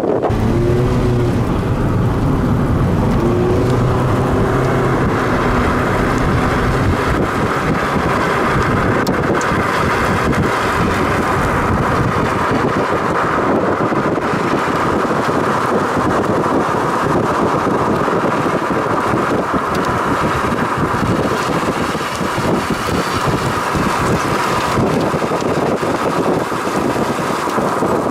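Loud, steady rush of storm wind blowing on the microphone, with a few brief pitched tones in the first few seconds.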